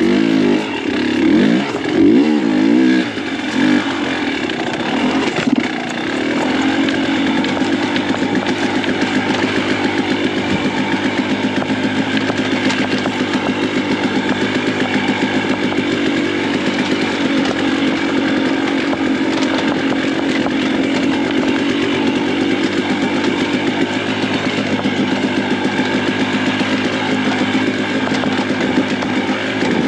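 Dirt bike engine revving up and down for the first few seconds, then running at a steady, even speed.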